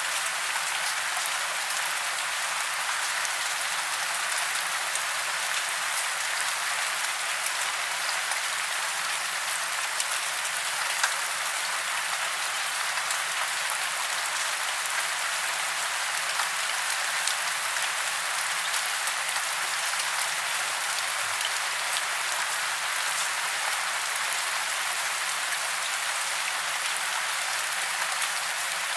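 Steady rain falling, an even hiss of many small drops pattering on surfaces with no thunder.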